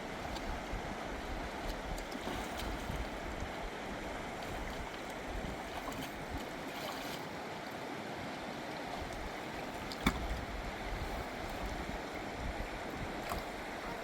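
Steady rush of river water flowing, with a single sharp knock about ten seconds in.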